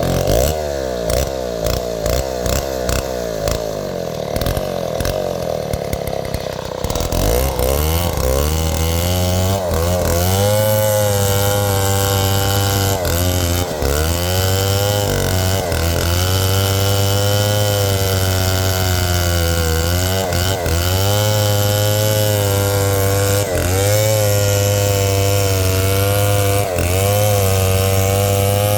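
Large '707' two-stroke chainsaw idling unevenly for about seven seconds, then opened up to high revs and held there. The engine note dips briefly and recovers several times.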